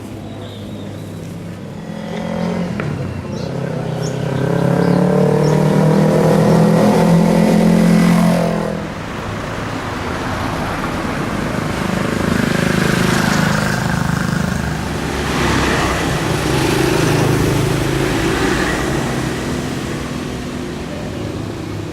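Motorcycle engine accelerating, its pitch climbing for several seconds, then easing off suddenly about eight seconds in, followed by steadier running with wind noise.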